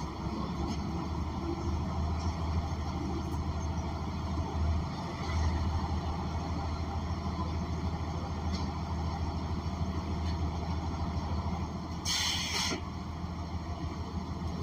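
Bus engine, a Cummins Westport ISL G natural-gas engine, running steadily with a low hum, heard from inside the bus. About twelve seconds in, a short hiss of released compressed air.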